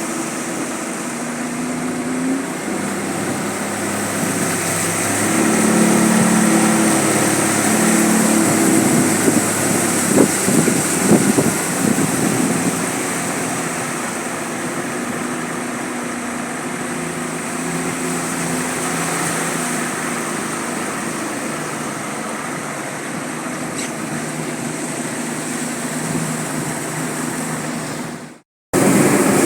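Small boat's motor running steadily, its pitch shifting a few times. Near the end the sound drops out for a moment and comes back louder.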